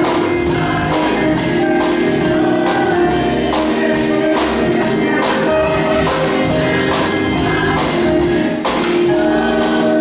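Gospel music with a choir singing over a steady tambourine beat.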